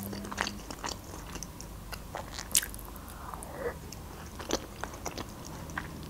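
Close-miked mouth sounds of chewing soft food, a cheese-topped casserole with tomato slices, with scattered short wet clicks.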